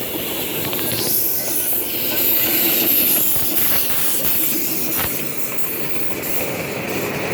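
Steam-hauled train running on the rails, with a steady hiss of steam and a few sharp clicks from the wheels.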